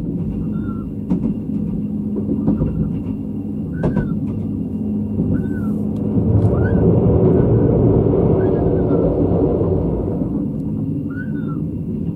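Running sound inside a State Railway of Thailand sleeper express coach: a steady rumble of the wheels on the rails, with a few sharp clacks and short high squeaks every second or two. The rumble grows louder and fuller for a few seconds in the middle, then eases back.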